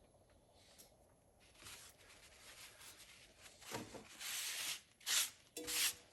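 Hand-handling noises at a workbench: rubbing and scraping rustles that start faint and grow louder, the loudest a hissing scrape about four seconds in, with a short squeak near the end.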